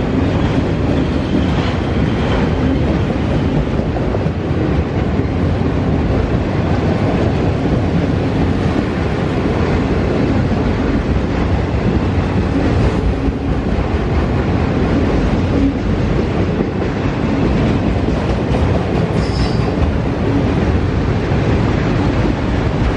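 A freight train of autorack cars rolling past at speed, making the steady, loud noise of steel wheels on the rails with some clickety-clack.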